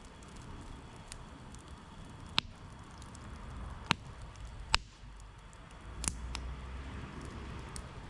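Campfire burning with a steady low hiss and sharp pops and crackles of the wood, three loud pops in the middle.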